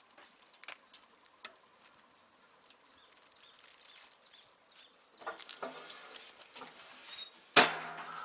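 Light clicks and knocks of metal barbecue grill parts being handled, then one loud metallic clank near the end that keeps ringing afterwards.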